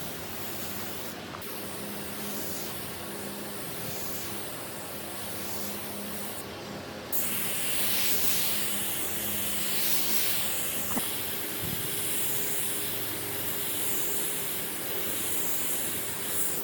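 Steady spraying hiss of finish being sprayed onto the wood. It gets louder about seven seconds in, then swells and fades roughly once a second as the spray passes.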